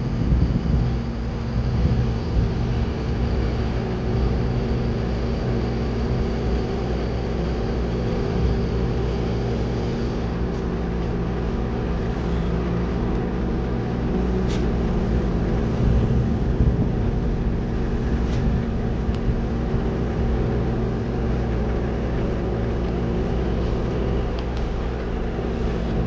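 Concrete mixer truck's diesel engine running steadily, heard from inside the cab, with a couple of faint clicks about halfway through.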